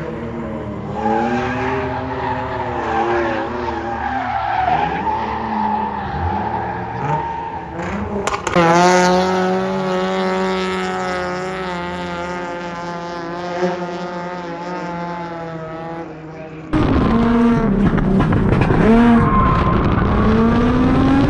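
Drift cars on track, engines revving up and down with tyres squealing through the slides. The sound changes abruptly twice, about eight seconds in and again near seventeen seconds.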